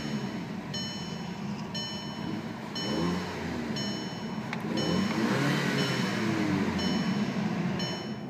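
2008 Audi TT's turbocharged 2.0-litre four-cylinder engine being revved, its pitch rising and falling twice. A short electronic warning chime from the car repeats about once a second and stops near the end.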